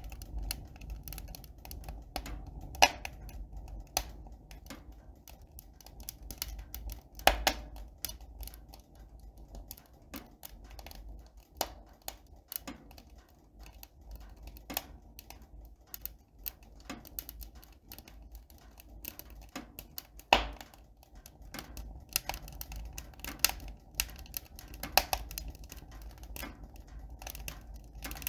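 Irregular light clicks and taps, with a few sharper knocks about 3, 7 and 20 seconds in, over a steady low rumble.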